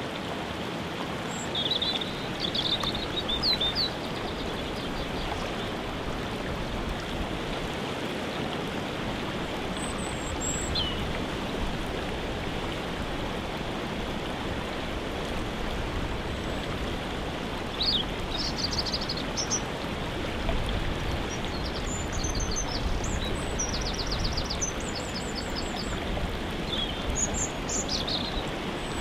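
Steady rushing of a waterfall, with songbirds calling and trilling over it: a short burst of song near the start, a brief call about ten seconds in, and a run of chirps and trills through the last third.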